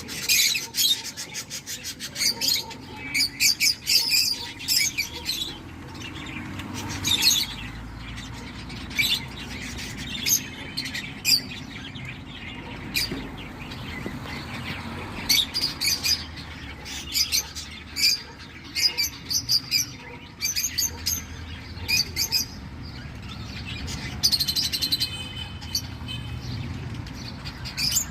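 Cockatiel chicks in the nest chirping in quick, repeated bursts of high, rasping calls, the food-begging calls of nestlings.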